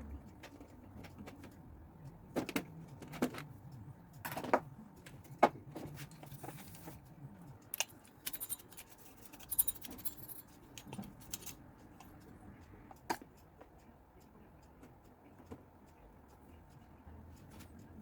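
Scattered clicks and knocks of small metal objects being handled, with a brief metallic jangle about eight to ten seconds in, then quieter toward the end.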